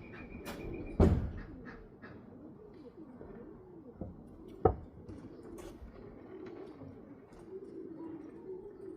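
Homing pigeons cooing in a loft, a steady wavering murmur, broken by a sharp knock about a second in and another a little before halfway.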